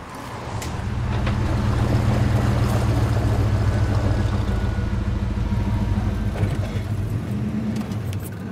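A motor vehicle's engine runs with a steady low hum. It swells over the first couple of seconds, holds, then eases off near the end.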